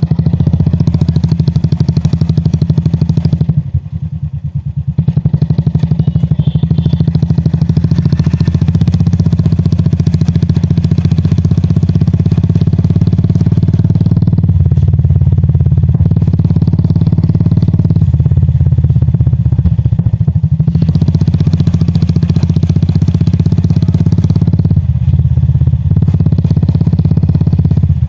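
Royal Enfield Classic 350's single-cylinder engine running with its exhaust thumping while the motorcycle is ridden. The throttle eases off briefly about four seconds in and the engine then pulls again, steady apart from small changes in load.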